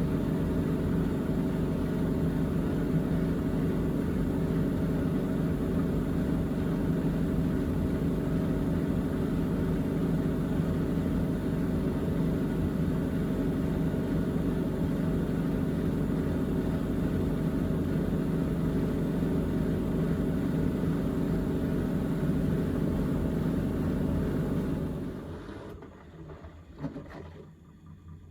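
Miele Navitronic W3985 WPS washing machine spinning steadily at 1400 rpm in its final spin, a constant hum and rumble. A few seconds before the end the drum begins to slow down and the sound drops away quickly.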